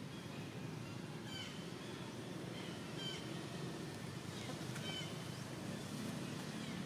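A bird calling in short, high, downward-sliding chirps, repeated about once a second, over a steady low background rumble.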